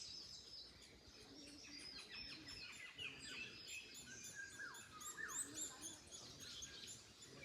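Several small birds singing and chirping together, many short whistled notes, some sweeping down in pitch, over a faint background hiss.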